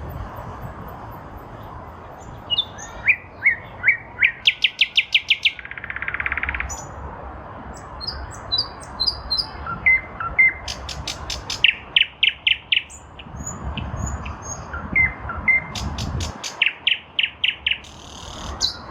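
Nightingale singing: several song phrases separated by short pauses, each built of gliding whistled notes and ending in a fast, loud run of repeated notes, about eight a second. A steady low rumble lies underneath.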